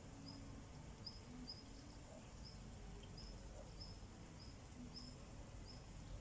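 Faint, short high chirps repeating about twice a second, typical of a cricket calling, over a steady low rumble.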